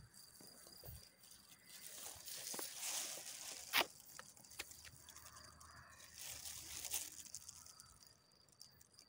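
Leaf litter and soil rustling and crunching as a wild mushroom is handled and picked from the forest floor, with a single sharp snap about four seconds in. A faint steady insect buzz runs underneath.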